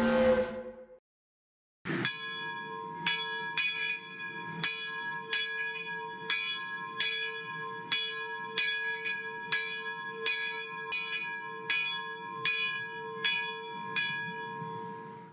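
Steam locomotive bell ringing in a steady swing, about five strokes every four seconds, each stroke ringing on into the next. A short pitched tone fades out about a second in, before the bell starts.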